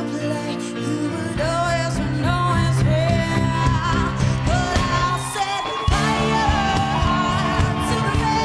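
A female singer sings a pop-rock ballad over a live band. The bass and drums come in fuller about a second and a half in, drop out briefly near the six-second mark, then come back.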